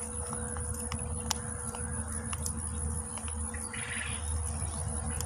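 A bird chirping, with a short trill near the end, over a steady low rumble and a few faint ticks.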